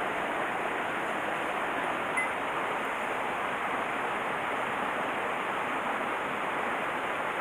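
Mountain stream water rushing steadily over rocks, an even hiss. One faint short tick about two seconds in.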